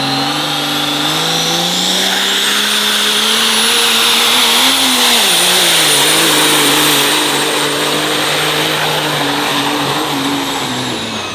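Diesel pickup truck pulling at full throttle, its engine note climbing, dipping about five seconds in, then holding steady. A high turbocharger whistle rises about two seconds in, stays up through the pull and winds down near the end as the engine eases off.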